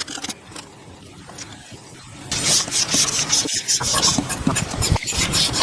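Rough scraping on wood in quick repeated strokes, starting about two seconds in.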